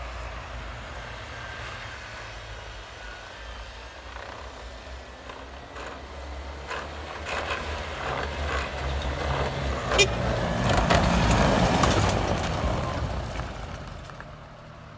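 Mini truck on Mattracks rubber tracks: a low engine hum with rattling and clicking from the tracks, growing louder to a peak about eleven seconds in, with one sharp click near ten seconds, then fading away.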